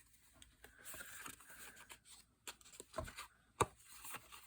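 Book-page paper being handled on a craft table: a soft rubbing and sliding of paper, then a few light clicks and taps, the sharpest about three and a half seconds in.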